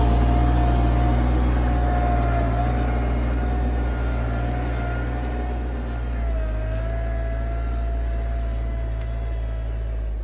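RK24 compact tractor's diesel engine running steadily, with a high steady whine over the engine note that dips slightly in pitch about halfway through.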